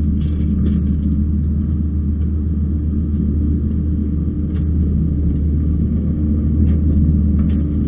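Kubota skid steer's diesel engine running steadily with a deep, even rumble, with a few faint clanks from the machine near the end.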